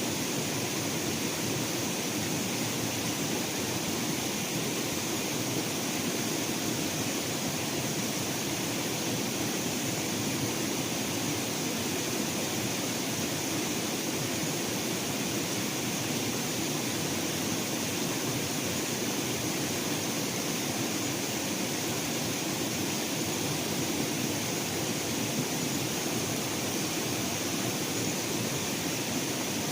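Steady outdoor background hiss, even and unchanging, with no distinct events.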